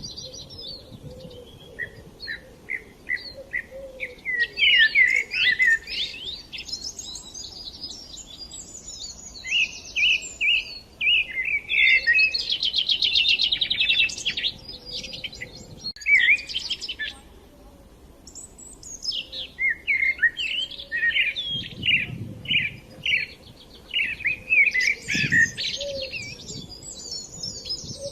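Several small songbirds chirping and singing in bursts of quick high notes, with a fast trill in the middle and short lulls between bouts.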